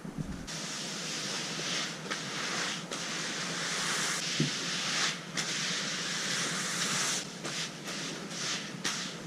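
Broom sweeping a floor: a continuous scratchy hiss of bristles, broken by brief pauses between strokes.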